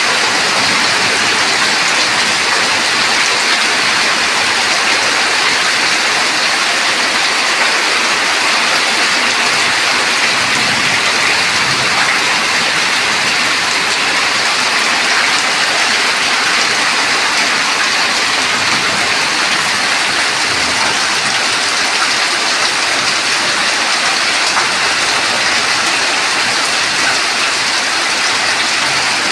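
Heavy rain falling steadily: a dense, even downpour.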